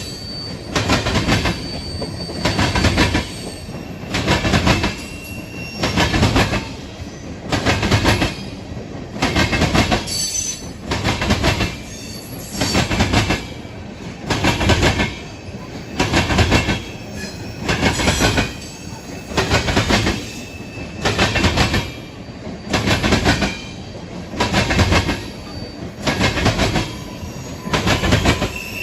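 A train rolling past with its wheels clattering over the track in a steady rhythm of loud bursts about every second and a half to two seconds, one burst per car. A faint high wheel squeal comes and goes.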